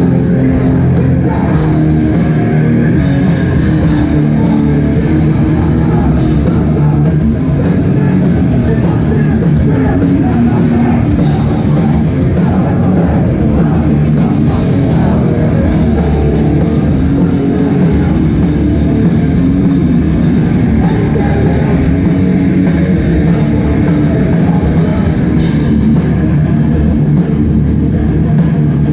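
Live hardcore band playing loudly: distorted electric guitars, bass and drum kit, with shouted vocals.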